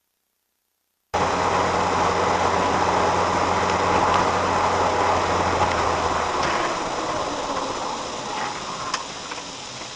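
Steady road and engine noise of a moving car, cutting in suddenly about a second in after silence, with a low hum that drops away in the second half, and a single short click near the end.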